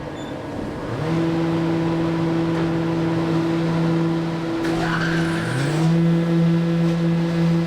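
Electric motors of the wood planing and moulding machine used to mill boat strip planking, starting up and then running with a steady hum; a second motor spins up about five seconds in.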